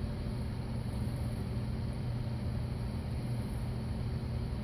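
A steady low mechanical hum with a light hiss, unchanging throughout.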